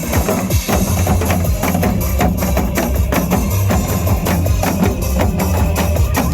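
Janggu drumming in a quick, steady rhythm of sharp strikes over loud backing music with a bass line and drum-kit beat.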